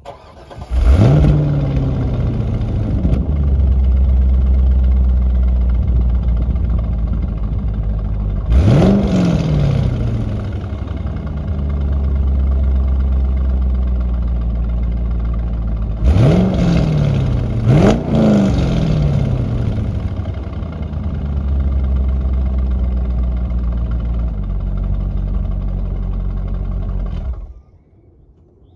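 A C5 Corvette's V8 on its stock factory exhaust starts up about a second in and settles to an idle. It is revved once, then twice in quick succession, and shut off near the end.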